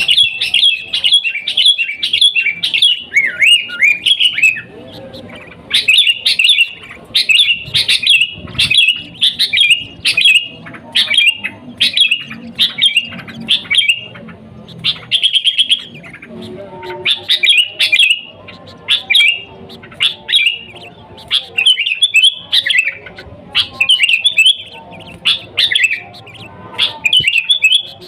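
Sooty-headed bulbul (kutilang) singing busily: phrase after phrase of quick, high chirping notes, with short pauses between the phrases.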